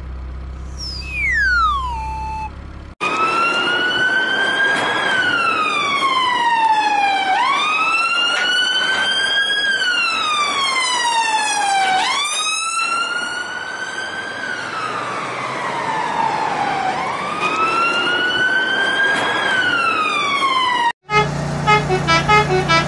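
A wailing siren, its pitch sweeping up and then gliding slowly down, over and over. Before it starts, a few quick falling whistle-like glides run over a low hum. Near the end it cuts off and a short tooting run of tones begins.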